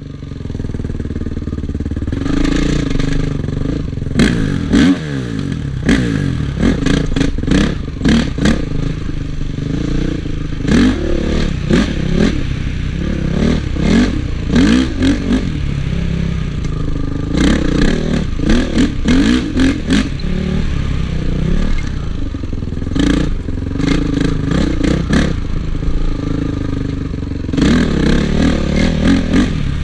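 Honda CRF450 motocross bike's single-cylinder four-stroke engine revving up and down repeatedly as it is ridden hard off-road, with frequent clattering knocks from the bike over rough ground.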